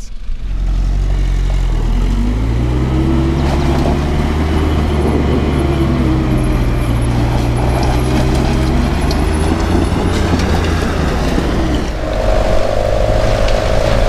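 Land Rover engines running under load during a strap recovery, revs rising and falling as a Series Land Rover is towed up a muddy bank by a Defender. Near the end it changes to a steadier vehicle drone with a constant hum.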